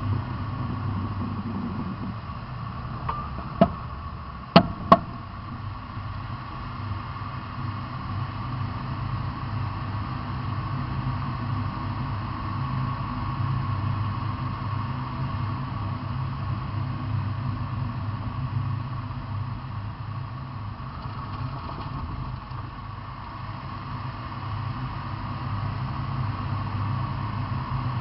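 Vehicle engine idling steadily, with three sharp pops a few seconds in, the last two close together.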